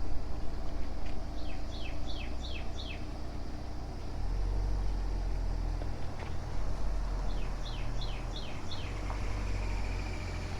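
A bird singing two runs of five or six quick, downward-slurred whistled notes, the second run about six seconds after the first, over a steady low rumble.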